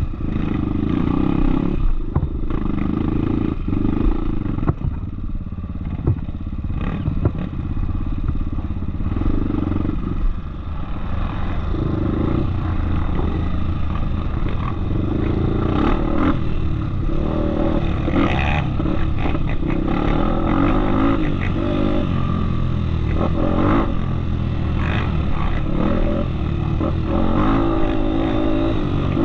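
Off-road motorcycle engine running, its pitch rising and falling with the throttle. Scattered knocks and rattles come through as the bike rides over rough ground.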